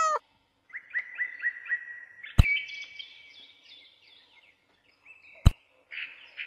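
Small songbird chirping in quick repeated runs, with two sharp clicks, one about a third of the way in and one near the end. The tail of a goat bleat ends right at the start.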